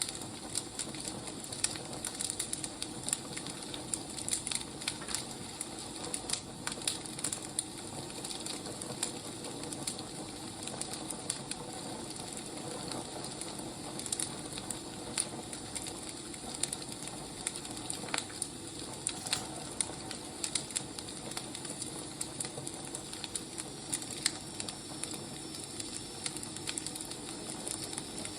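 Firewood burning: a steady hiss with irregular crackles and pops.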